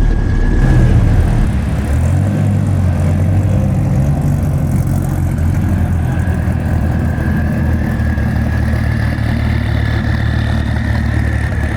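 Twin-turbocharged 8.4-litre V10 of a Gen V Dodge Viper running steadily under way, with a loud low rumble and a thin high whine that rises slightly near the end.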